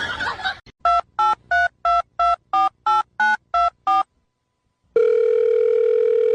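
Telephone keypad touch-tones: ten short two-note beeps dialled in quick succession, about three a second, like a phone number being entered. After a second's pause, a steady ringing tone starts on the line near the end.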